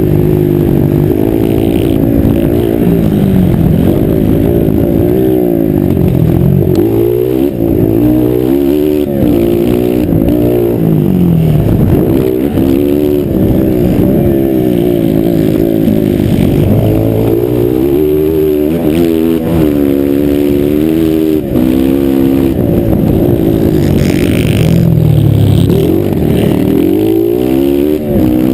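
Motocross motorcycles racing, their engines revving up and dropping back again and again as the riders accelerate and shift gears, loud and close.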